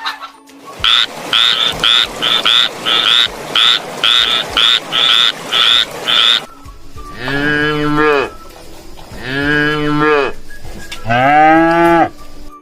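A run of about a dozen short, repeated animal calls, roughly two a second, over a rough background, then a cow mooing three times, each moo long and low, rising and falling in pitch.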